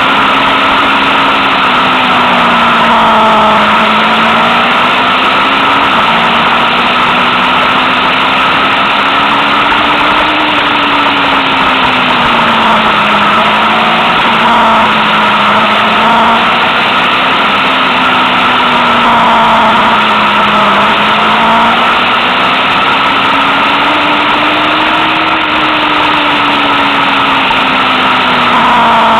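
Motorcycle engine heard from an onboard camera while riding, its note rising and falling slowly with the throttle, with one abrupt drop in pitch about six seconds in. A steady rush of wind and road noise runs under it.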